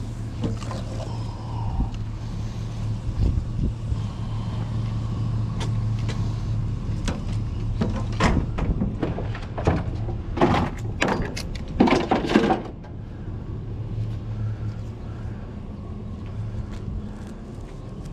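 A vehicle engine running with a steady low hum, with a burst of knocks and clattering, like scrap being handled, about eight to twelve seconds in.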